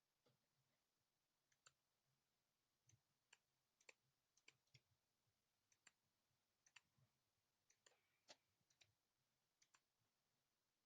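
Near silence with faint, irregular clicking from a computer mouse and keyboard being worked, a dozen or so clicks spread over the stretch.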